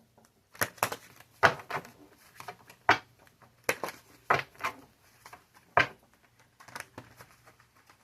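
Tarot cards being handled and shuffled, giving a dozen or so sharp, irregular clicks and taps.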